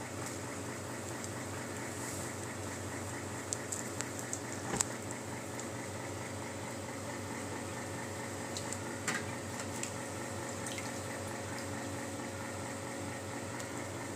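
Steady machine hum, like a room fan or air conditioner running, with a few light clicks and taps from handling as chicken wings are coated in flour.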